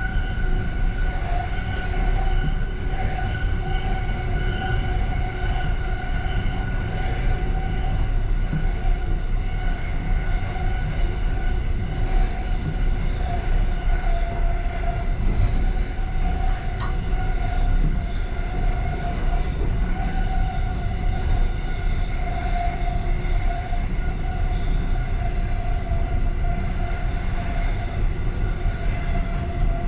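Passenger train running at speed, heard from inside its last car: a steady low rumble of wheels on rail with a steady high whine held over it.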